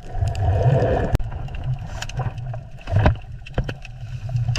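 Water gurgling and sloshing with a low rumble, broken by a few sharp clicks, played as the sound of a shrimp.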